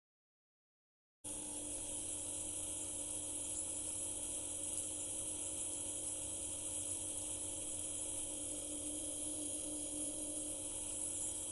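About a second of dead silence, then a steady electrical hum with a hiss that holds evenly.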